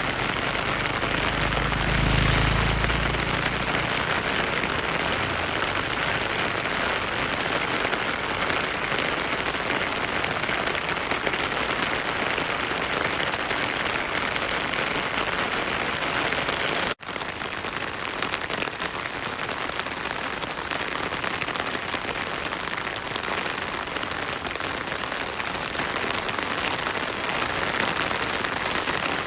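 Heavy rain falling steadily, an even dense hiss, with a brief low rumble about two seconds in. Just past halfway the sound cuts out for an instant and resumes.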